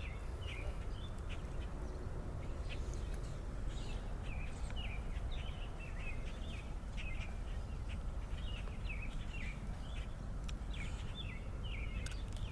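Birds calling with many short, irregular chirps over a steady low background rumble.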